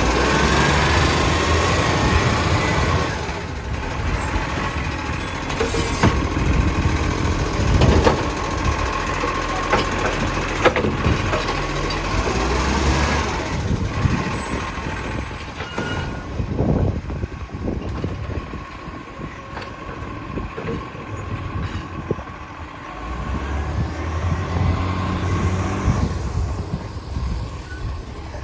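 Garbage truck working: its diesel engine runs loudly, with a steady whining tone over it and a few sharp knocks. The engine eases off midway and picks up again near the end.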